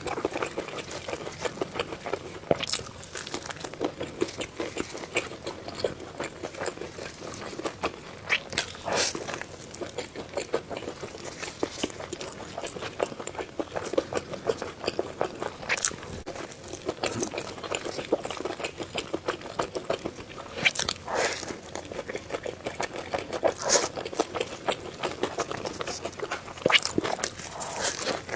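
Close-miked eating: steady chewing with wet mouth clicks, and a sharper crunchy bite every few seconds.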